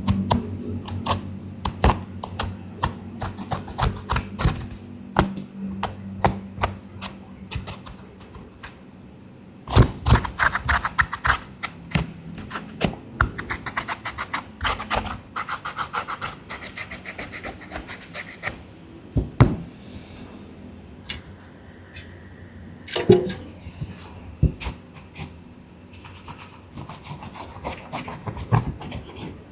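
A brush scrubbing a sneaker in quick runs of scratchy strokes, with a few louder knocks from the shoe being handled.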